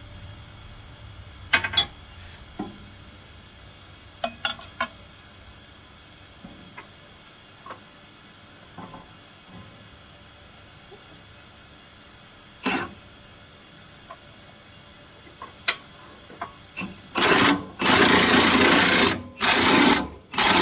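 Scattered metallic clicks and knocks of tools being handled, then a power tool run in several short, loud bursts near the end.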